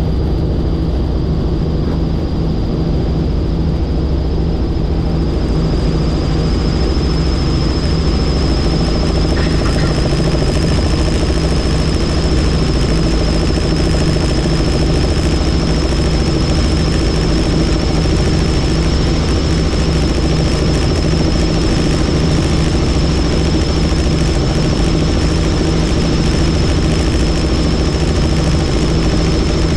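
Helicopter in flight heard from on board: steady, loud engine and rotor noise with a high turbine whine that rises slightly in pitch and grows stronger about six seconds in.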